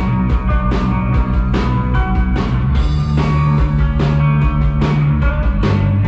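Live rock band playing an instrumental passage: drum kit keeping a steady beat under sustained bass and guitar notes, with no singing.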